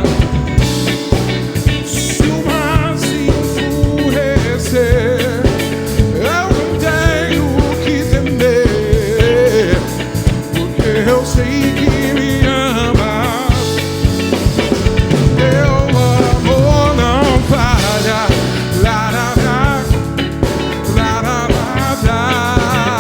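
Live band playing a soul-funk groove: a steady drum beat, bass and a wavering melodic lead line.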